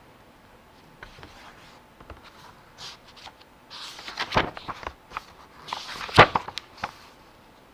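Soft rustling and a few sharp knocks and clicks, as of objects being handled and set down. The loudest knock comes about six seconds in.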